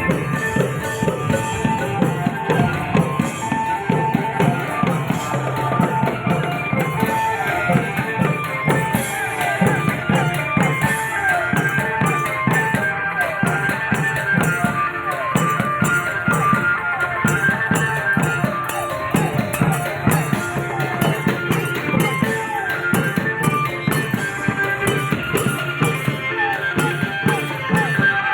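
Thai klong yao long-drum ensemble playing, a dense run of drum strokes with ringing metal percussion over them.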